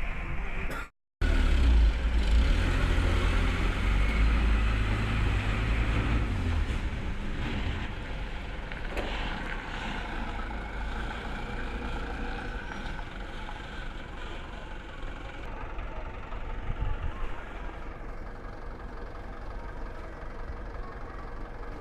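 Diesel truck engine running with a heavy low rumble that is strongest for the first several seconds, then settles to a steadier, quieter run.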